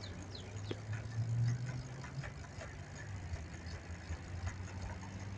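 Low, steady hum of an idling motor vehicle engine, a little louder about a second in, with scattered light clicks.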